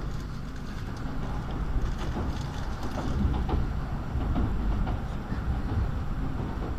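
Tokaido Shinkansen train rumbling steadily, heard from inside the car, with a few faint clicks.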